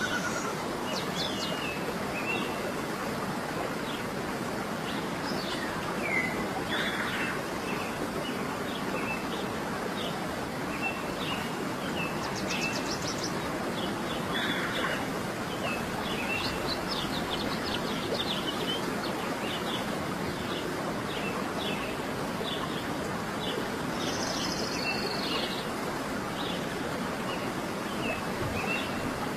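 Many small songbirds chirping and calling over a steady rushing background. Later on, one bird repeats a short note about once or twice a second.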